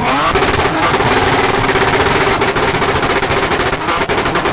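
Modified car engine held on a two-step launch-control rev limiter, the revs pinned at one steady pitch while the exhaust fires a rapid machine-gun string of pops and bangs, stopping abruptly at the end.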